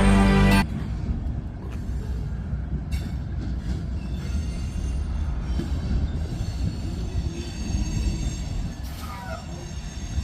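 Freight railcars rolling on the rails: a steady low rumble with faint high-pitched wheel squeal. A song cuts off abruptly about half a second in.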